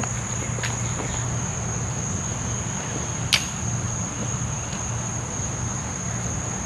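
A steady, high-pitched drone of insects, held without a break. A sharp click comes about halfway through, over a low rumble.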